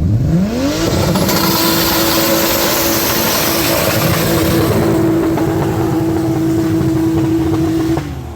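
A car engine is revved up sharply and held at high revs for about seven seconds, then let back down near the end.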